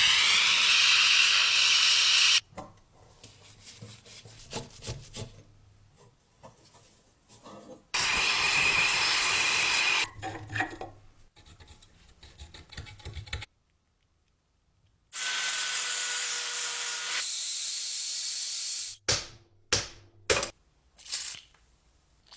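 Three loud bursts of spraying hiss, each a few seconds long and starting and stopping abruptly, alternate with quieter rubbing, scraping and clicking of hand tools on the parts.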